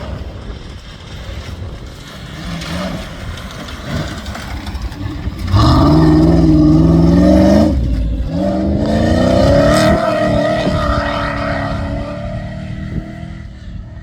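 Off-road competition safari vehicle's engine accelerating hard: it gets suddenly loud about five and a half seconds in with the pitch climbing, drops briefly near eight seconds, climbs again, then fades away over the last few seconds.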